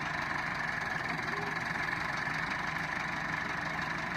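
Tractor diesel engine running steadily, with an even, unchanging note.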